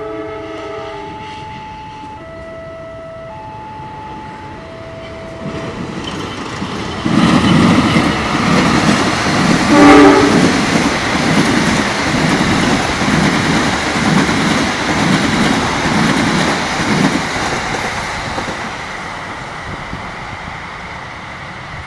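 Passenger train passing close by: a train horn first sounds a few short notes stepping between two pitches, then about seven seconds in the train arrives loud and the wheels clack over the rail joints in a steady beat of a little more than one a second. The clacking is loudest about ten seconds in, then fades as the train moves away.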